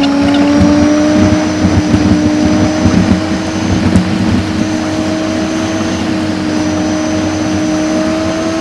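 Renault Laguna 1.8 8-valve petrol engine and road noise, sped up five times so the engine drone becomes a steady high hum that rises slowly in pitch. A few knocks and a sharp click come in the first half.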